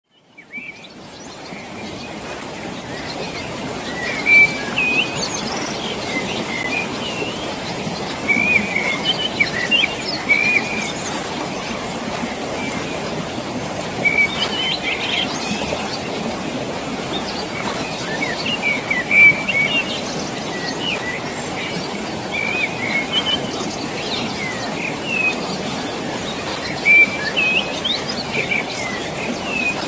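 Running water in a valley, a steady rush, with many birds chirping over it throughout; the sound fades in over the first couple of seconds.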